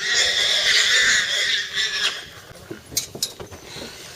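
Wild boar squealing in distress while held down by a tiger: one long, shrill scream of about two seconds, then fading to quieter sounds with a couple of sharp clicks.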